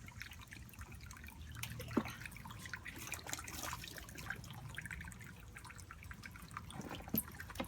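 Water trickling and dripping in many small, irregular drips, heard in a small room.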